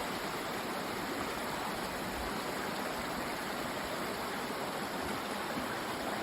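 Mountain creek rushing steadily over rocks.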